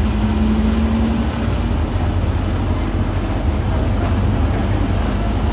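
Diesel engine of a Scania N230UD OmniCity double-decker bus running with a steady low drone. A steady higher tone stands out over it for about the first second and a half.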